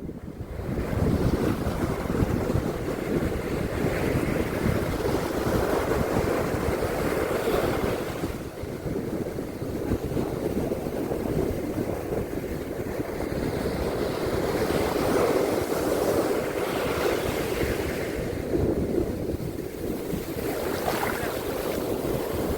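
Ocean surf washing onto a beach in slow swells, with wind buffeting the microphone.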